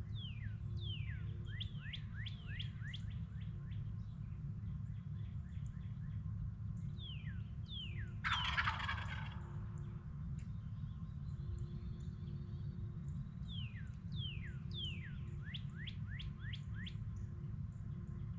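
A wild turkey gobbles once, loud and rattling, about eight seconds in. Before and after it come runs of quick, high falling bird notes, several to a second.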